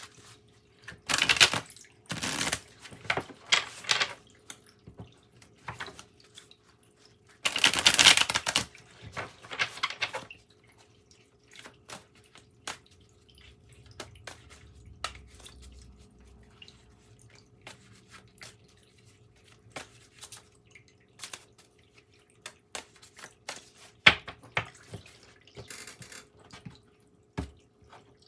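A deck of tarot cards being shuffled by hand: several bursts of shuffling in the first ten seconds or so, then scattered light clicks and taps of the cards.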